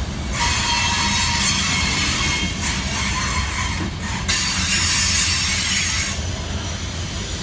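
Loaded centerbeam flatcars of a freight train rolling past at speed: a steady low rumble of wheels on rail, with thin high-pitched squealing from the wheels.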